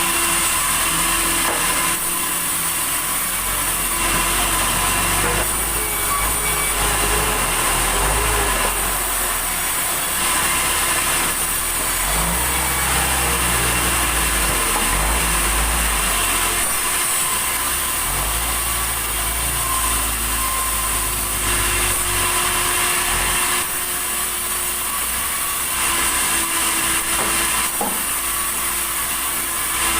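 Sawmill saw running without a break as it cuts through a log of red tasak wood, with a steady high hiss and a low rumble that swells and eases several times.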